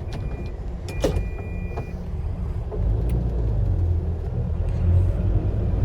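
Car running with a steady low rumble of engine and road noise that grows louder about three seconds in, as the car gets moving. A two-note electronic beep sounds in the first two seconds, with a sharp knock about a second in.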